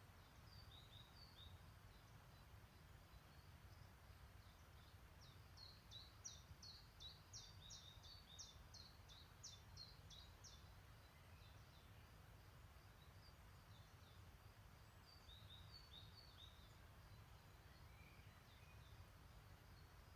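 Faint songbirds singing: a few short high chirps near the start and again later, with a quicker run of bright notes between about five and ten seconds in, over a low, steady background rumble.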